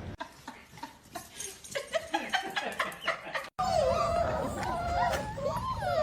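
A quick run of sharp clicks and taps, then, after a sudden cut, a dog whining in wavering, rising and falling calls.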